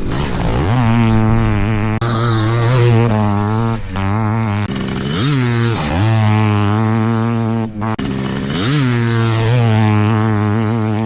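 Yamaha YZM500 500cc two-stroke motocross bike running hard at high revs. Its pitch dips sharply and climbs back up about three times as the rider rolls off and opens the throttle.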